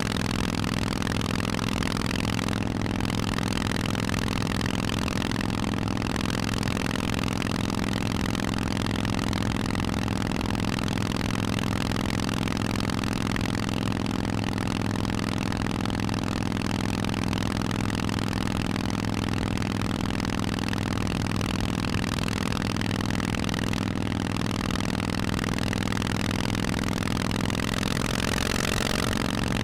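Harley-Davidson Forty-Eight's air-cooled 1200 cc V-twin running through aftermarket Vance & Hines exhausts, holding a steady engine speed, with a slight rise in pitch near the end.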